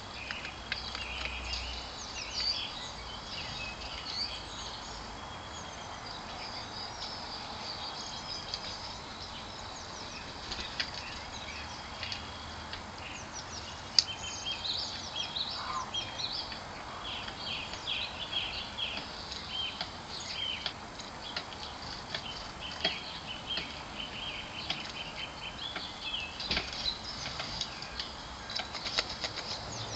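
Garden birds chirping and calling over a steady outdoor hum, many short high calls that come thicker in the second half, with one sharp click about halfway through.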